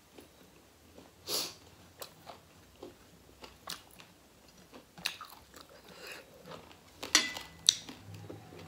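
Close-up eating sounds: chewing and wet mouth smacks as food eaten by hand is chewed, with scattered small clicks. There is a louder smack about a second and a half in and a quick cluster of louder ones near the end.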